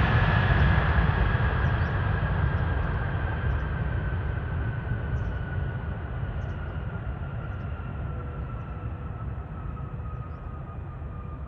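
Jet airliner passing and moving away: a heavy engine rumble with a whine that slowly falls in pitch, the whole sound fading steadily.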